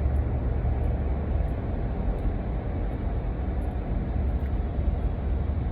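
Steady low rumble of continuous background noise, with no distinct events.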